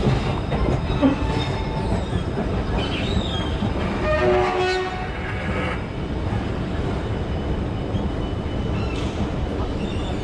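A train running on the tracks in the station, a steady low rumble, with a short pitched tone about four seconds in.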